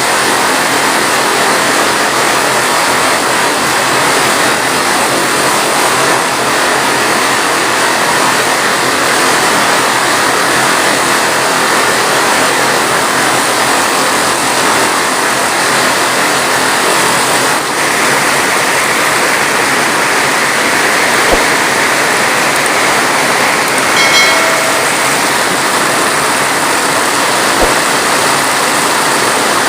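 Heavy rain falling in a steady, dense hiss. A brief pitched sound cuts through about three-quarters of the way in.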